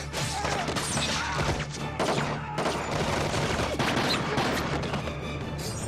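Rapid, sustained gunfire from several guns, many shots in quick succession, over a dramatic music score.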